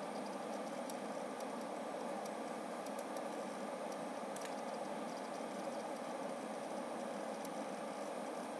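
Irregular, faint clicks from a Seagate FireCuda ST2000LX001 2TB hybrid hard drive, a few seconds apart, over the steady louder whoosh of a computer fan. The owner hears the clicking as a racket, even when the drive is idle, but does not take it for the click of death.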